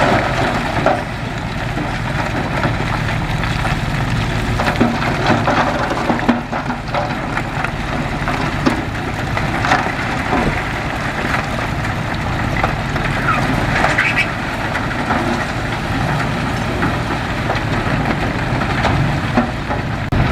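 Heavy diesel earthmoving machinery running steadily, with scattered metallic clanks and a few short squeals.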